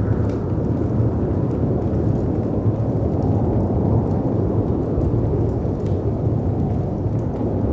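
Storm ambience: a steady, deep rumble of wind and sea surf, with a few faint crackles from a fireplace.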